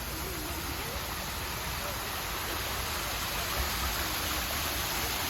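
Steady rushing of running water, slowly growing louder, with faint voices underneath.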